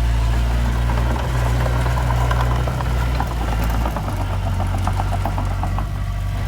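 Heavy diesel earthmoving machine running steadily, its engine note shifting about four seconds in, with a rapid metallic clicking through the middle.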